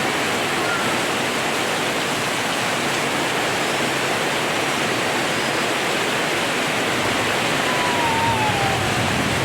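Heavy rain pouring down steadily, a dense, even hiss. A faint, short falling whistle comes about eight seconds in.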